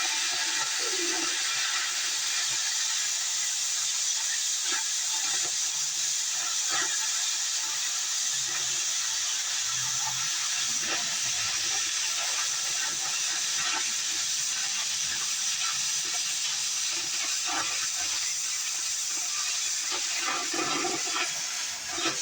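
Cutting torch hissing steadily with scattered crackles as it cuts through the steel of a worn backhoe bucket. The hiss dips briefly near the end.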